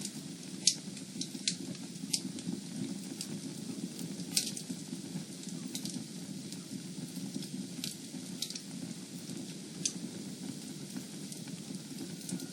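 Fire burning in a fireplace: a steady low rush with sharp crackles and pops scattered about once a second, the loudest pops about half a second in and a little after four seconds.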